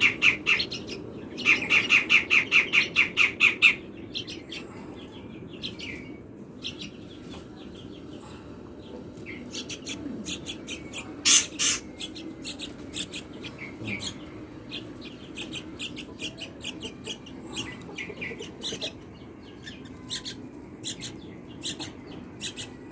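Sooty-headed bulbul (trucuk) nestlings begging while being hand-fed crickets: rapid, high chirps, with a loud run of about five chirps a second near the start, then scattered chirps.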